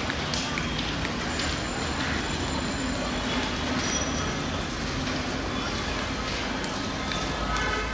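Bangladesh Railway passenger coaches rolling past close by: a steady rumble of wheels on the rails with a few sharp knocks over the joints early on, and faint thin high squeals about halfway through.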